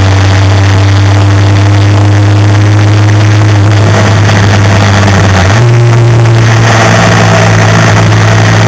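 Motorcycle engine running steadily while riding, with wind rush over it; the engine's pitch steps up a little just past halfway.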